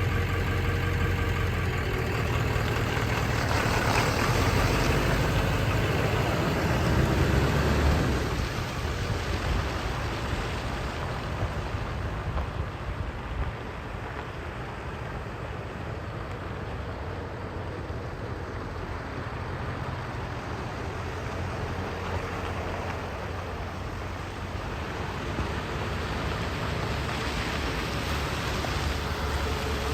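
1999 Ford F-250's 7.3-litre Power Stroke V8 turbo-diesel engine running at idle. It is louder for the first eight seconds, then drops to a steadier, quieter idle.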